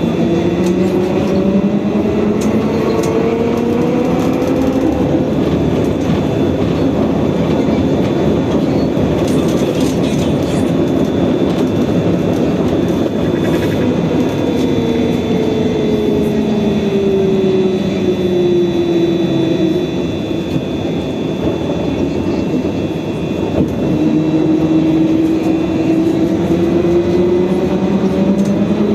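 Trolleybus in motion, heard from inside: the electric traction motor's whine rises as it speeds up, falls as it slows about halfway through, and rises again near the end, over continuous road and body rumble.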